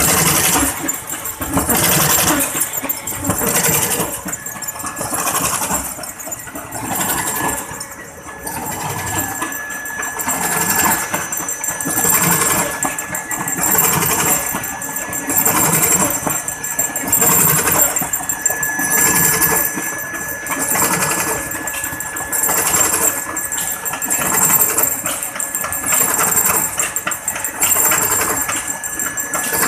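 Automatic folder-gluer and stitching machine running steadily, with a regular mechanical cycle repeating about once a second.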